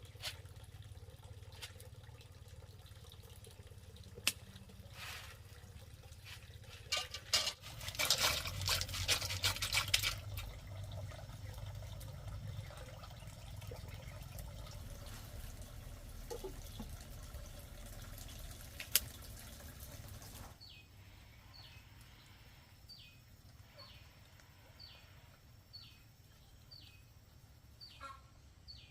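Water trickling and splashing, with a louder spell of splashing from about seven to ten seconds in. In the last several seconds a short, high falling chirp repeats about once a second.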